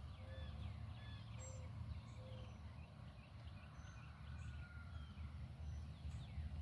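Faint bird calls, short chirps and whistles scattered through, over a steady low rumble.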